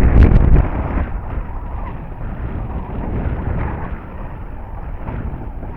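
Wind buffeting the microphone: a loud low rumble in the first half-second, then a steadier, weaker rushing.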